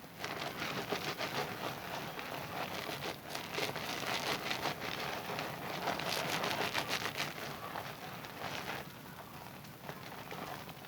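A bar of Zest soap being lathered with wet hands: a continuous wet squishing and crackling of lather, busiest in the middle and quieter from about nine seconds in.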